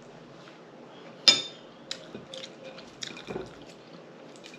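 Close wet eating sounds: chewing and lip smacking, with scattered soft clicks and one sharp click about a second in.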